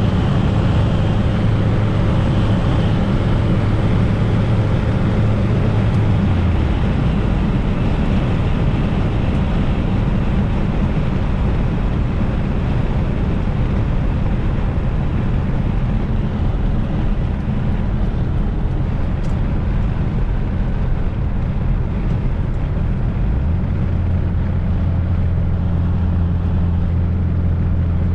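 Fiat Coupe 16V Turbo's turbocharged four-cylinder engine and road noise during a drive. The engine note drops in pitch about six seconds in and rises again about five seconds before the end.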